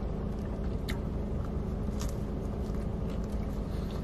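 Chewing a bite of a crispy fried chicken sandwich, a few soft crunches about one and two seconds in, over the steady low hum of the car running.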